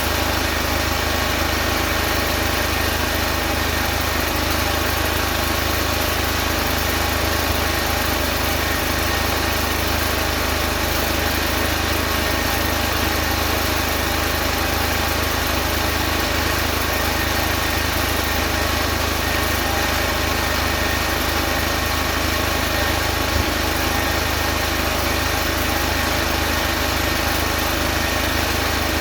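A small engine running steadily at an unchanging idle.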